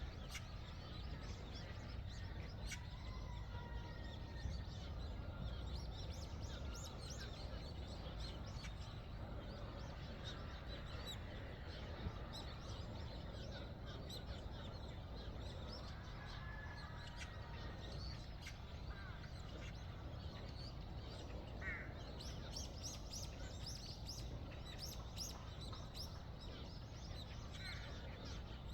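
Assorted birds chirping and calling, with short whistles and a busier run of sharp, high chirps near the end, over a steady low rumble of background noise.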